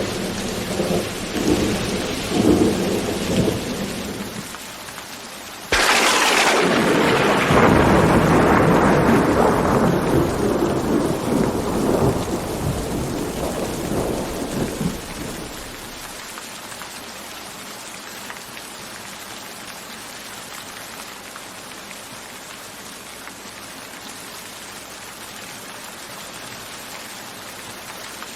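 Thunderstorm: rain falling steadily under a low rumble of thunder, then a sudden sharp thunderclap about six seconds in that rolls away over some ten seconds, leaving only the even hiss of rain.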